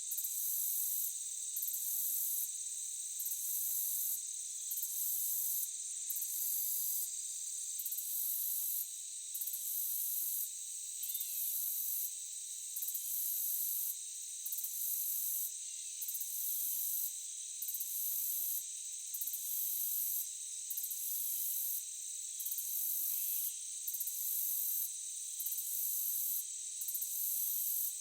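Forest insect chorus: crickets trilling steadily and high, over a still higher shrill that pulses on and off about every second and a half. A few faint short calls come through in the middle.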